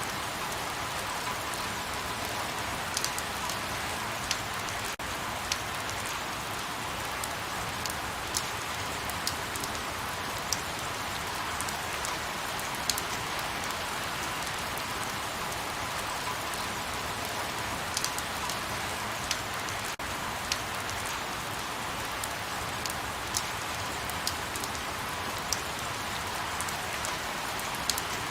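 Light rain falling steadily, an even hiss with occasional distinct drops ticking close by.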